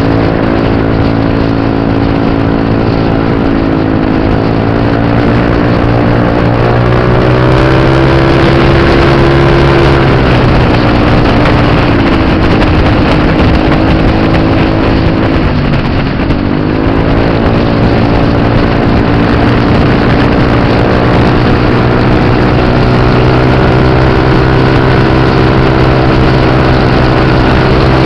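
Scooter engines running at high, near-constant revs under way, the pitch dipping briefly a few times and climbing back.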